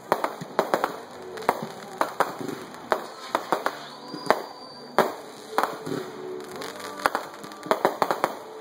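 Firecrackers and fireworks popping in quick, irregular volleys of sharp cracks, with a brief whistle about halfway through.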